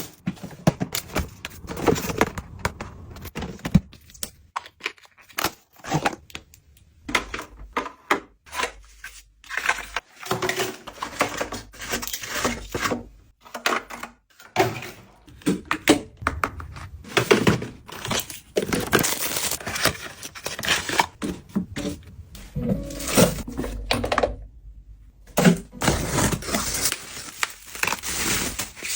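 Packaging being handled and opened: irregular crinkling and tearing of wrapping, with knocks and thunks as boxes and items are set down.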